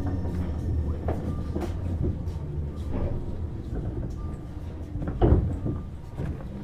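Running sound heard inside a Tobu Tojo Line commuter train car: a steady low hum with irregular knocks from the wheels on the track, the loudest about five seconds in.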